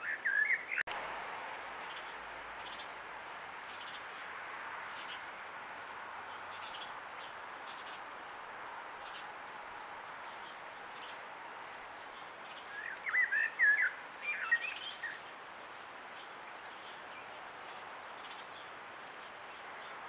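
Small bird chirping in two short bouts, once at the very start and again for about two seconds a little past the middle, over a steady hiss. A single click about a second in.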